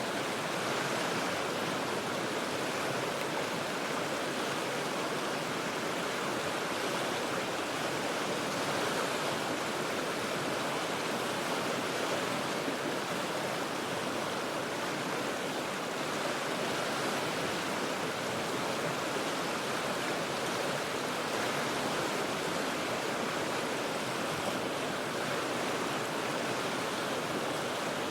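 River water rushing steadily over rocks: an even, unbroken wash of water noise with no separate splashes or changes.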